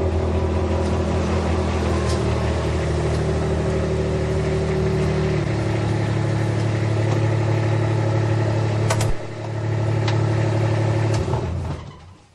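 Kubota utility vehicle's engine running steadily as it is driven, changing pitch about halfway through, then shut off near the end.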